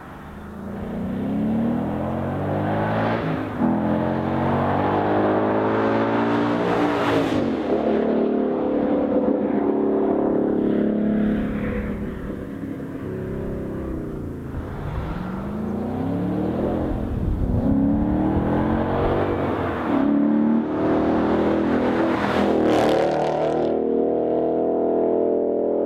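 2013 Ford Mustang GT's V8 through a Roush axle-back exhaust, revving and accelerating, its pitch climbing and dropping back several times.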